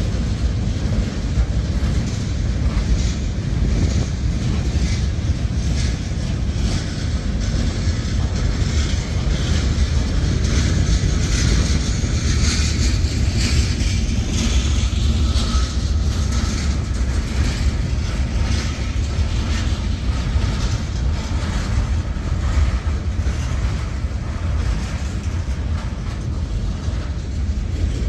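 Freight cars of a Norfolk Southern manifest train rolling past: a steady, heavy rumble of steel wheels on the rails, with frequent clicks from the wheels crossing rail joints.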